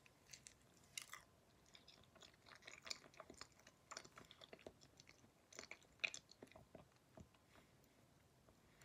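Faint mouth sounds of a person biting off and chewing a piece of banana: soft, irregular clicks from the mouth.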